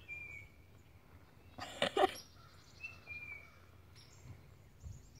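A bird sings a short, slightly falling whistled note twice, about three seconds apart, over faint background noise. A brief, louder sound comes about two seconds in.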